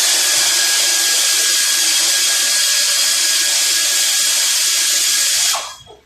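A power tool runs at a steady high speed for about five and a half seconds, then winds down and stops.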